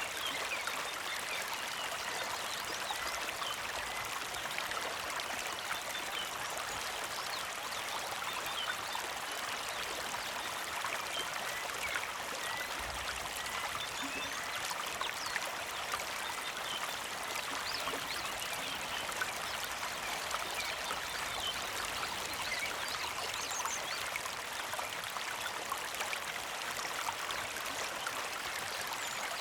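Small mountain creek flowing and trickling steadily over rocks, a constant bubbling water sound with many small splashes.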